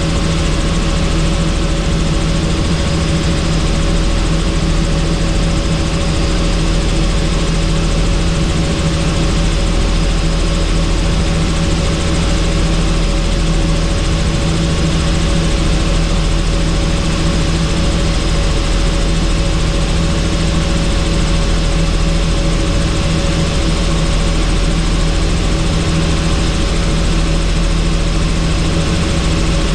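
Helicopter in flight: a steady, loud drone of rotor and engine with several constant humming tones, unchanging throughout.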